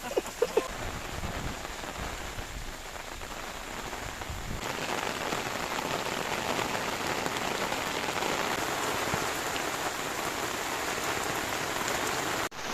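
Heavy typhoon rain pouring down as a steady hiss, turning suddenly louder about four and a half seconds in.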